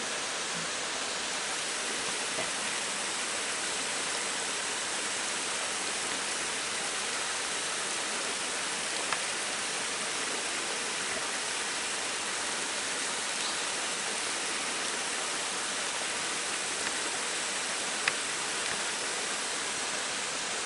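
Mountain stream water rushing steadily over rocks, an even wash of water noise, with a couple of faint clicks along the way.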